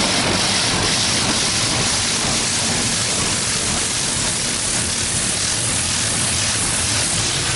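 Touchless car wash spray nozzles showering water onto the car's body and glass, heard from inside the cabin as a steady rain-like hiss.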